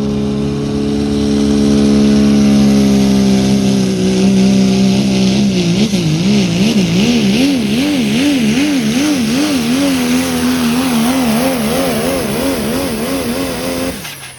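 Pulling truck's engine held at full throttle on a sled pull: steady at first, then from about six seconds in its pitch swings up and down about twice a second, before the throttle is cut and the sound drops away sharply near the end.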